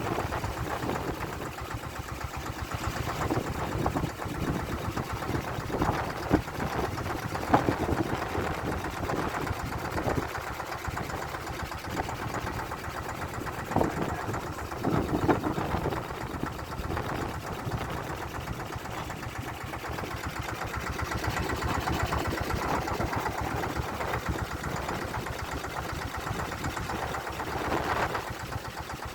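A small boat's engine running steadily at low revs with a fast, even chugging, with a few louder knocks along the way.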